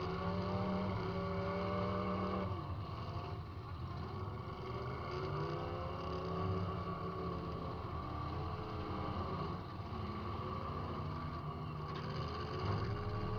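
Demolition derby car's engine running and revving, heard from inside the car, its pitch rising and falling as the throttle changes.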